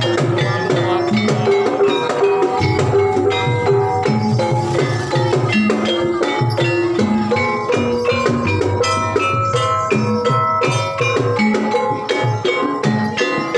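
Javanese gamelan music: mallet-struck keyed percussion playing a steady run of ringing notes over hand-drum strokes, dense and unbroken.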